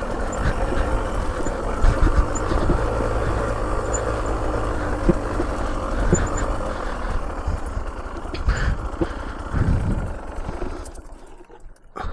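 Off-road vehicle engine running at low revs while descending a steep track, with rumble and small knocks from the rough ground, fading away near the end.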